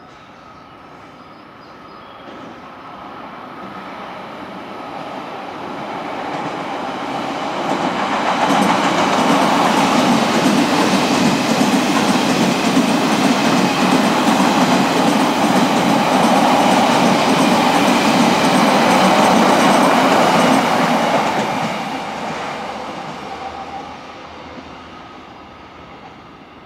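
Odakyu 60000 series MSE Romance-car electric train running through the station without stopping. Its wheel and rail noise grows as it approaches, runs loud and steady for about thirteen seconds as the cars go by, then fades as it moves away.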